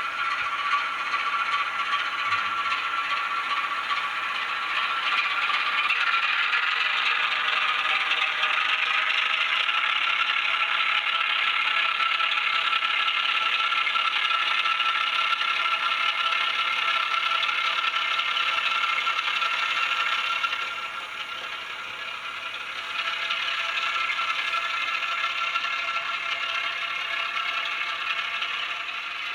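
N gauge Graham Farish Class 08 model shunter running, its sound decoder playing diesel engine sound through a tiny speaker, thin and without bass, over a steady rattle. It dips in loudness for a couple of seconds about two-thirds of the way through.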